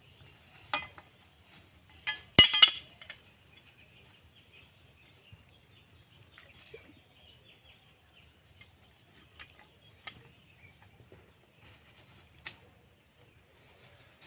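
A few sharp clicks, with a brief loud clinking clatter about two seconds in.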